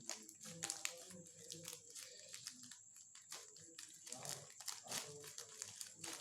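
Shipping package being opened by hand: faint, irregular crinkling and tearing with scattered sharp crackles and clicks.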